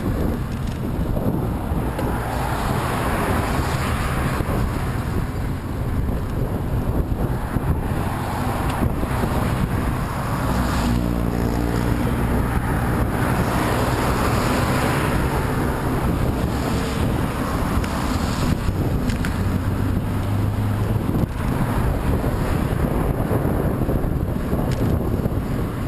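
Strong wind buffeting the microphone of a moving rider heading into a headwind: a steady, loud rushing noise. About eleven seconds in, a motor vehicle's low droning hum with several steady tones joins for several seconds.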